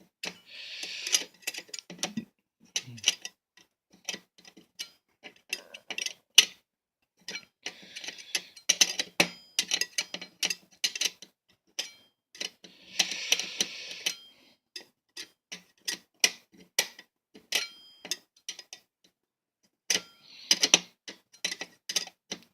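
A tool's blade clicking and scraping in the screw head of a box fan as the screw is worked loose. Irregular sharp clicks throughout, broken by a few short scraping rasps.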